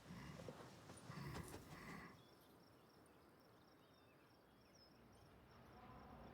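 Near silence with faint outdoor ambience: a few soft knocks and rustles in the first two seconds, then quiet with a faint, evenly repeating high chirping.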